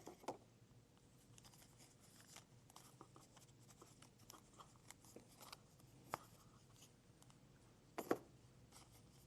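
Near silence: room tone with a few faint, scattered light ticks and taps, and a slightly louder double tap about eight seconds in.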